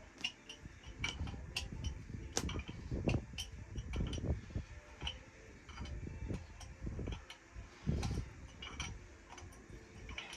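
Irregular metallic clicks and taps of hand tools working on engine fasteners, over low handling and rustling noise.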